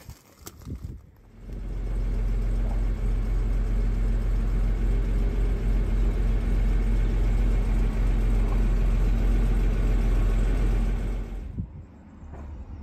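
A few light knocks, then a Jaguar 4.2-litre straight-six engine idling steadily. Near the end the sound drops to a quieter, steady idle.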